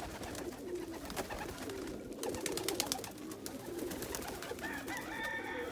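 Domestic pigeons cooing, several low overlapping coos in a loft, with a quick run of sharp clicks about halfway through.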